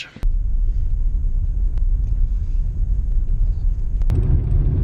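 Low, steady rumble of a car driving, starting abruptly. A click comes about four seconds in, after which the rumble gets fuller.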